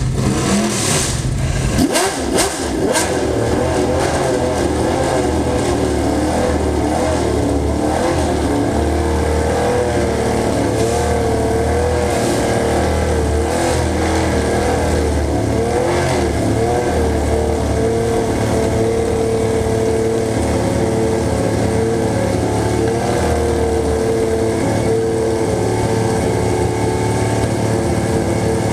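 A car engine running steadily with small rises and falls in pitch, like light blips of the throttle, with a few sharp clicks about two seconds in.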